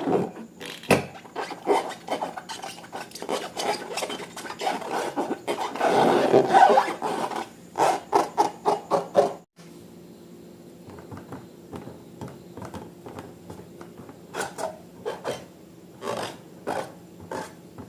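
Hands working slime-making materials: rubbing, scraping and crackling clicks. The sound stops abruptly about halfway through, and sparser clicks follow over a faint steady hum.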